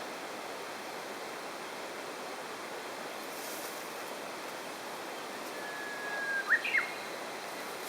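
Steady rush of a stream by a waterfall. Near the end a bird whistles once: a held note of about a second, then two quick higher notes.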